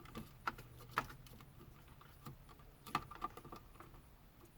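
Irregular light plastic clicks and rattles of wiring harness connectors being handled and fitted behind a truck's dash radio.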